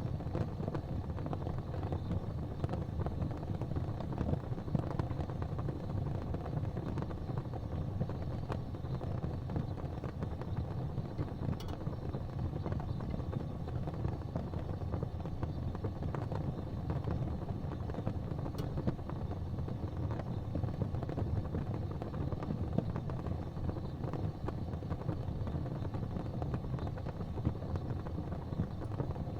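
Gas fireplace flames burning with a steady low rumble, with a couple of faint ticks.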